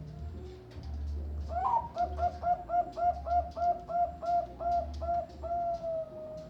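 Zebra dove (perkutut, Bangkok song line) singing: a rising opening note, then a quick run of about a dozen short coos at roughly four a second, ending on one longer drawn-out note.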